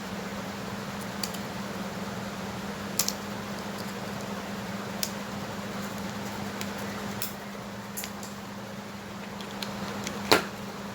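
A steady hum at one pitch, with a few light clicks of handling and one sharper knock near the end.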